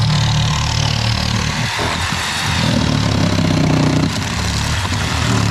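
Corded reciprocating saw (Sawzall) cutting through a fiberglass boat hull, starting abruptly and running steadily with a rough, rasping buzz.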